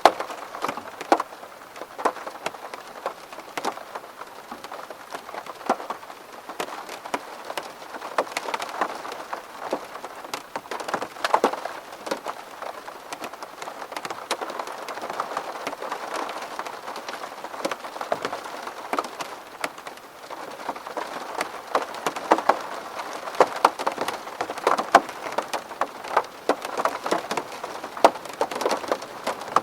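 Steady rain falling on a window pane, a constant patter with many separate drops ticking sharply against the glass.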